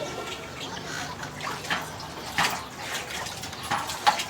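Water splashing in a small makeshift pool as people move in it, in irregular short splashes, the sharpest about two and a half and four seconds in.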